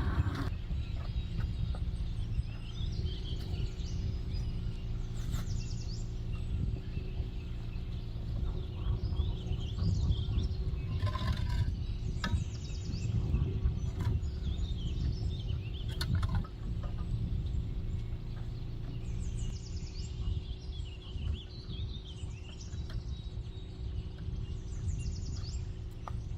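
Outdoor ambience: a steady low rumble with small birds chirping and trilling in short, scattered calls throughout.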